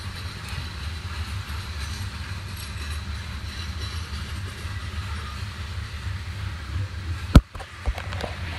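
Train rolling through a railroad grade crossing with a steady low rumble. About seven seconds in there is one sharp, very loud bang, followed by two smaller knocks.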